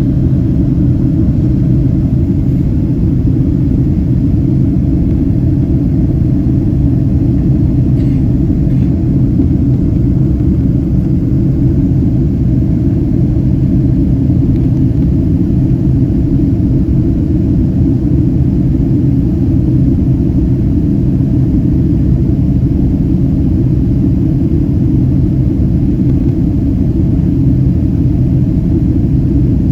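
Boeing 767-300ER airliner in flight, heard from inside the cabin: a steady, loud, low rumble of engine and airflow noise, with a couple of faint clicks about eight seconds in.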